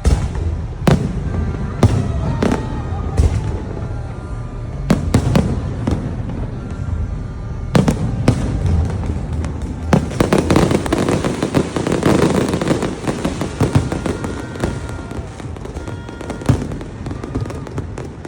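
Aerial fireworks exploding in a string of loud, sharp bangs, thickening about ten seconds in into a dense run of overlapping bursts and crackle.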